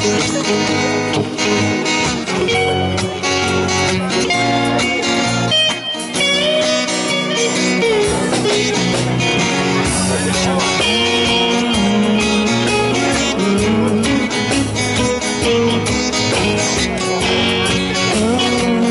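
Band music led by guitar, an instrumental passage with no singing.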